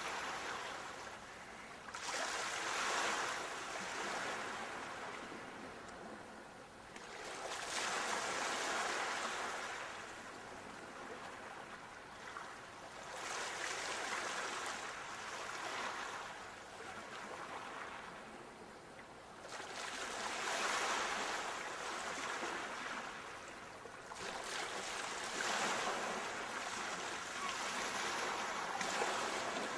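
Ocean waves breaking and washing on a shore, a hissing surge that rises and falls about every five to six seconds.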